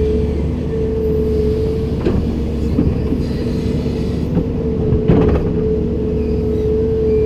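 Komatsu PC290-10 excavator working: its diesel engine runs with a steady whine over a low rumble, and sharp knocks sound about two and five seconds in.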